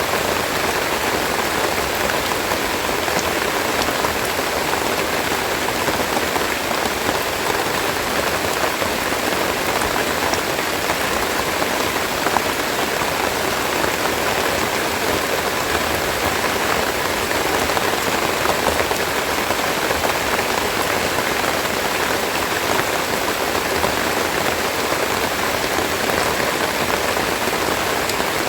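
Steady rain falling, a dense even hiss of raindrops on leaves and surfaces close by.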